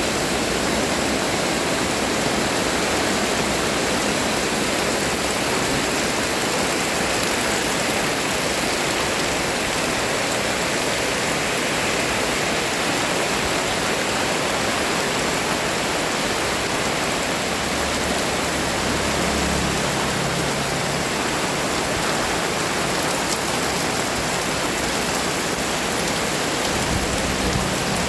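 Heavy rain pouring down, a steady even hiss of rainfall.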